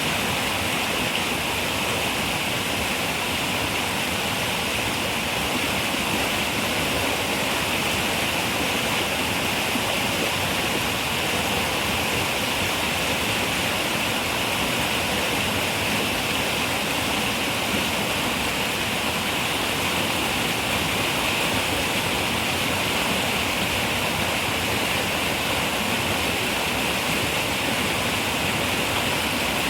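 Running river water, a steady, even rush with no breaks or changes.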